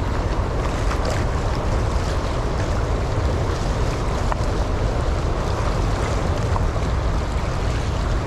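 Steady rush of choppy floodwater and waves, with wind rumbling on the microphone.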